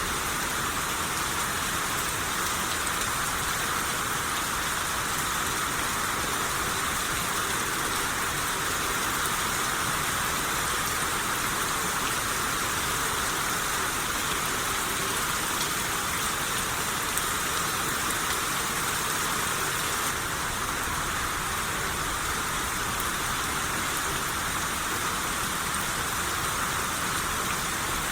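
Steady rain shower, a dense, even patter of rain falling on a surface.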